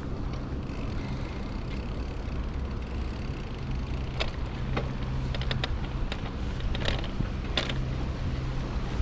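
Bicycle ride noise: a steady rumble and low hum, with irregular clicks and rattles from the bike through the second half.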